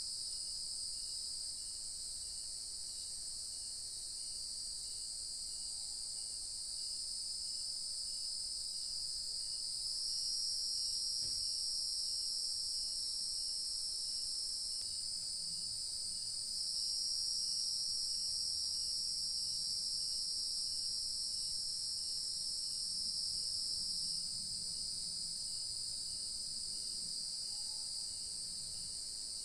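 Dusk chorus of crickets and other night insects: a continuous high-pitched trilling that swells about a third of the way in and eases back near the end. Underneath runs a faint regular pulse, about once a second.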